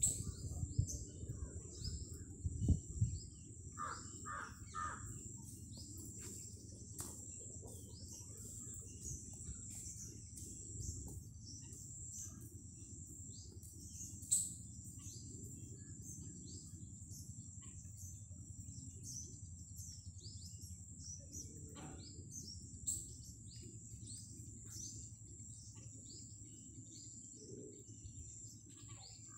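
Birds chirping, with three short calls about four seconds in, over a low steady rumble while oil heats in a kadhai.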